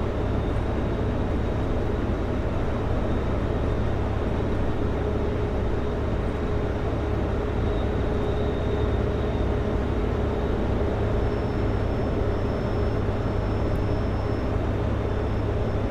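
Kenworth W900L semi truck running steadily down the highway, its diesel engine drone and road noise heard from inside the cab, with a faint steady whine joining about halfway through.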